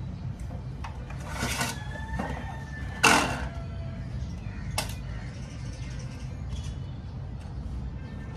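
Clicks and knocks of parts being handled during a photocopier repair, the loudest a sharp knock about three seconds in, over a steady low hum.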